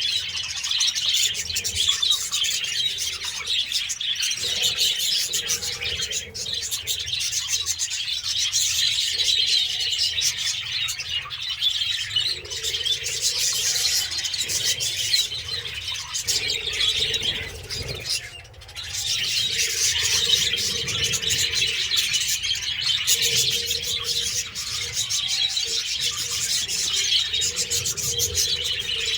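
A flock of parrots chattering and chirping continuously: a dense, unbroken twittering of many overlapping calls, with a short lull about two-thirds of the way through.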